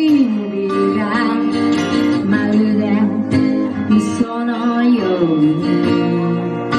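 Live band music from a guitar-led folk-pop song, with a melody line that glides between notes over strummed guitar.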